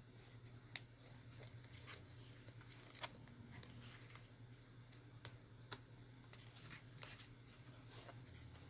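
Near silence: faint, scattered clicks and light paper handling as journal signatures are sewn in by hand with needle and thread, over a steady low hum.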